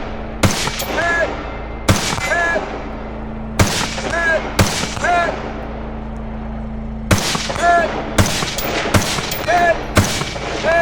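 A string of gunshots, spaced about half a second to a second and a half apart, with a pause in the middle. Most shots are followed about half a second later by a short ringing ding of a hit on a distant steel target.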